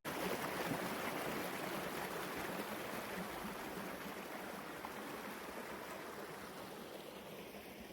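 Steady rushing noise with no distinct tones, starting abruptly and slowly growing quieter.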